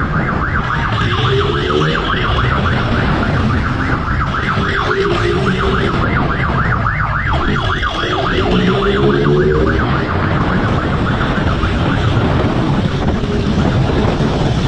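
Police siren wailing with a rapid, steady warble over a motorcycle engine that revs up several times during a chase.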